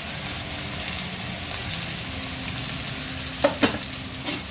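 Chopped onions and dried red and green chillies sizzling in hot oil in a steel kadhai, a steady frying hiss. Two sharp knocks come about three and a half seconds in, and another near the end.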